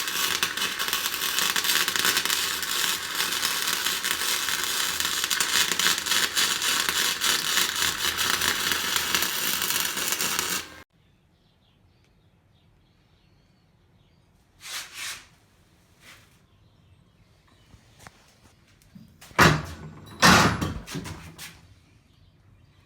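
Flux-core wire welder (Harbor Freight Titanium Flux 125) laying a bead, its arc crackling steadily for about eleven seconds, then cutting off suddenly. A few separate metallic knocks follow after a pause, the loudest two close together near the end.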